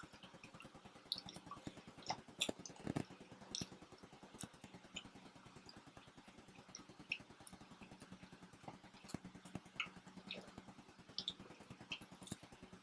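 Quiet pizza-eating sounds: scattered small clicks, crackles and chewing noises, over a faint steady hum.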